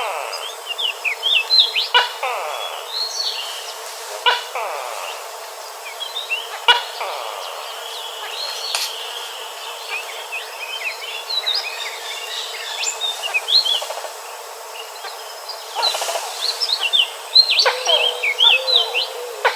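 Ashy-bellied white-eyes twittering: many quick, high chirping notes that overlap in bursts, busiest near the start and again near the end.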